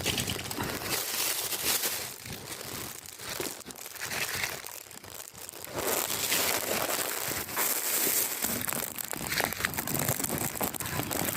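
Close rustling and crackling of mango-tree leaves and twigs being handled as fruit is picked, irregular and louder in the second half.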